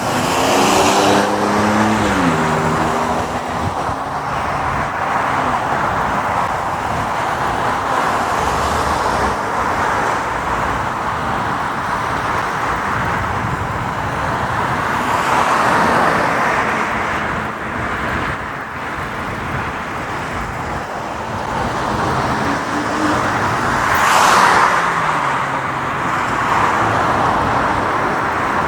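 City street traffic heard from a riding motorcycle: a steady mix of engine, tyre and wind noise with vehicles passing. An engine note falls in pitch over the first few seconds, and a brief loud hiss comes about 24 seconds in.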